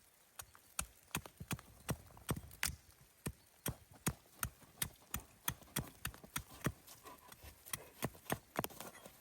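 A steady run of sharp knocks, about two to three a second, starting about half a second in.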